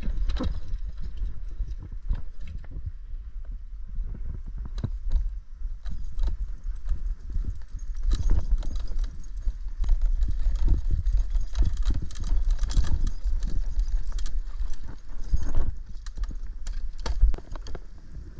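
Scooter rolling over a rough forest trail: irregular clatter and knocks from the wheels and deck jolting over bumps, over a constant low rumble.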